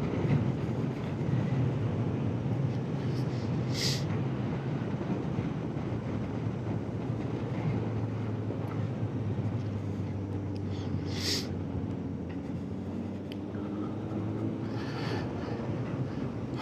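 Honda motorcycle engine running at a steady cruise, with wind and road noise; two brief hissing bursts about four and eleven seconds in.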